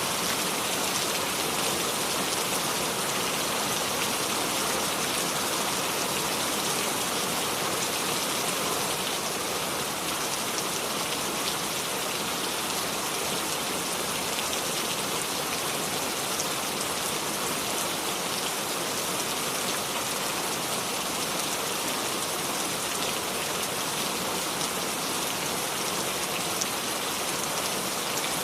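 Steady rain without thunder: an even hiss of rainfall, with fine drops pattering on surfaces.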